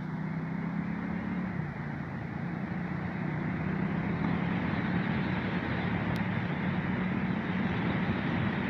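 Ducati Multistrada 1200's V-twin engine running steadily under way, with wind and road noise, getting a little louder about halfway through.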